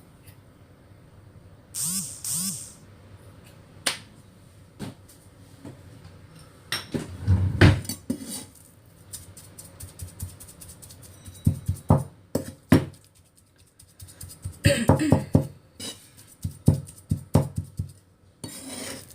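Minced pork with seasonings being worked in a bowl to make it sticky, like meatball dough: irregular knocks, slaps and clatters in bursts with short pauses.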